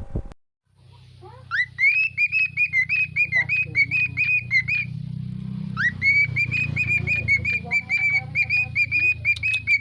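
A songbird singing fast runs of repeated whistled notes, about five or six a second, starting a second and a half in, breaking off briefly around the middle, then starting again. A steady low hum runs underneath.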